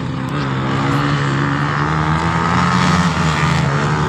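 Dirt bike engine running loud and steady under throttle on a test ride, its note edging up in pitch and dipping briefly about three seconds in.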